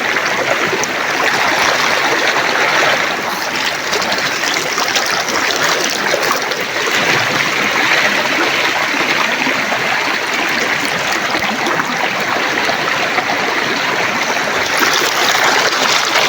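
Steady rush and gurgle of a flowing river stream, loud and close.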